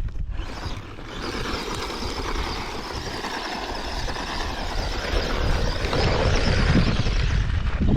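Feiyue Fighter 1/12-scale RC short course truck driving on concrete, its electric motor and gears whirring under the noise of its tyres. It gets louder in the last few seconds.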